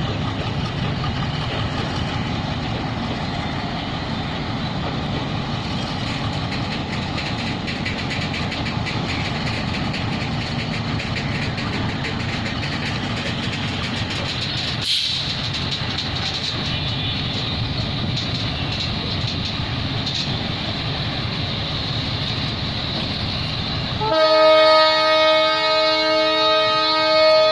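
Loaded covered goods wagons of a freight train rolling past at low speed: a steady rumble of wheels on rail with frequent clicks as they cross the rail joints. Near the end the rolling sound gives way abruptly to a louder, steady chord of several tones.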